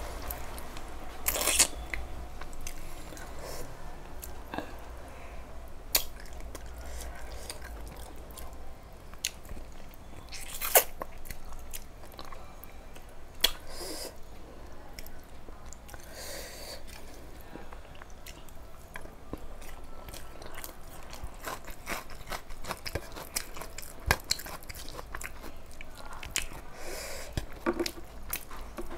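A person chewing and eating rice and chicken curry by hand, with wet mouth sounds and many short, sharp clicks scattered through it.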